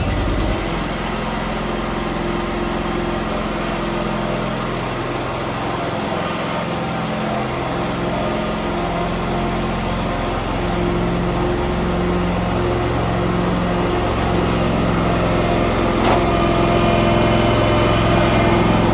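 Zero-turn lawn mower engine idling steadily right after starting, its pitch wavering slightly. It gets a little louder near the end.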